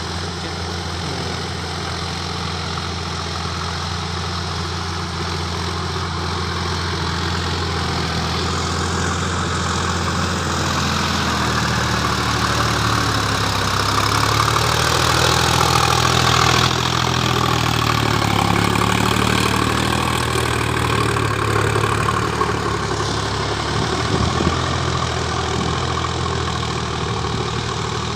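Sonalika DI 50 hp tractor's diesel engine running steadily, its pitch and loudness rising about halfway through and easing off a little toward the end.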